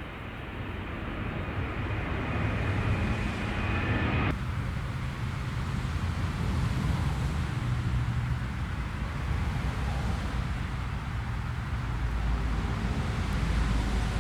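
Jet airliner engines at close range: a thin, high whine over a heavy rumble that breaks off abruptly about four seconds in, leaving a deep, steady engine rumble.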